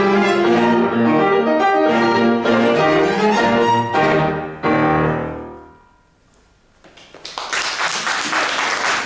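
Piano quartet of piano and bowed strings playing a classical piece to its close, the final chord dying away about five and a half seconds in. After a moment of silence, audience applause starts about seven seconds in.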